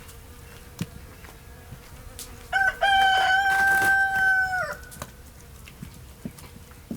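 A rooster crowing once, a short opening note followed by a loud held call of about two seconds that falls away at the end.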